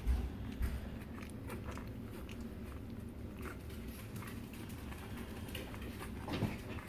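French Bulldog puppies eating soft mushed dog food: wet smacking, lapping and chewing, a run of small irregular clicks, with a louder low bump right at the start.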